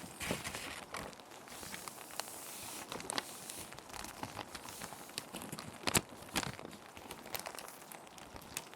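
Plastic sheet protectors crinkling and crackling as paper sheets are handled and slid into them, in irregular bursts with the loudest crackle about six seconds in, over a steady background hiss of rain.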